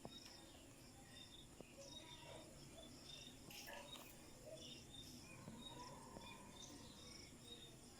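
Faint, scattered short bird chirps over low background noise.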